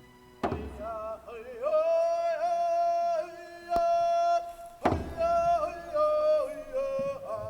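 A drum struck twice, each strike followed by a long, high, wavering sung chant.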